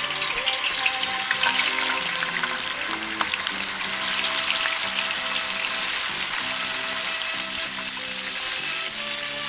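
Food sizzling and crackling in a hot pan, with background music.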